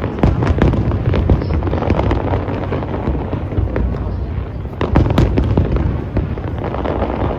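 Aerial fireworks display: continuous booming with many rapid sharp bangs and crackles, with a cluster of stronger bursts about five seconds in.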